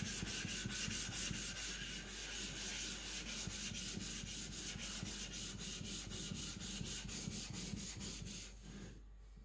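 Quick, rhythmic back-and-forth rubbing on a Naniwa Professional 5000-grit whetstone, about four to five strokes a second, stopping near the end.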